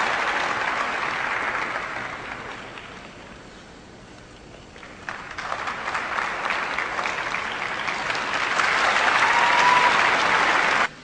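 Audience applauding. The applause dies down over the first few seconds, swells again from about five seconds in, is loudest near the end, and then cuts off suddenly.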